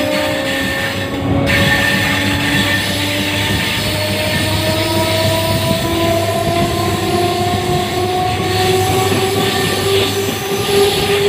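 Train running, heard from on board, with a steady rumble and several whining tones that climb slowly in pitch as it gathers speed.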